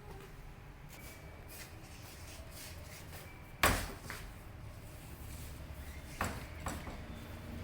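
A sharp knock about halfway through and two softer knocks near the end, over a faint steady low hum.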